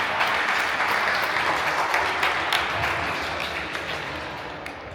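Spectators applauding, the clapping dying away over the last couple of seconds.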